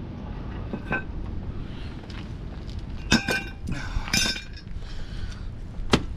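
Metal tools and hardware clinking as they are handled and set down: a few sharp, ringing strikes about a second in, a pair around three seconds in, another pair around four seconds in, and one near the end.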